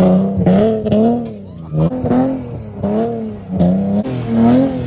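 A car engine revving hard, its pitch rising and dropping about once a second.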